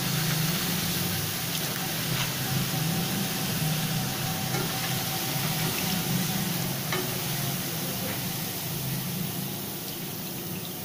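Gathiya sev (gram-flour noodles) deep-frying in hot oil in a pan: a steady sizzle that eases off a little near the end.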